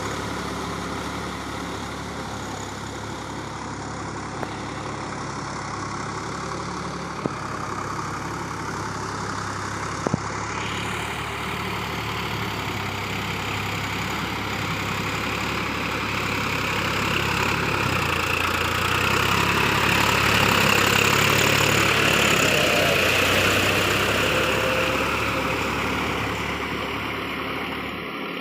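Swaraj 744 FE tractor's three-cylinder diesel engine running at a steady idle, with a few sharp clicks in the first ten seconds. The engine grows louder about two-thirds of the way through, then eases off again near the end.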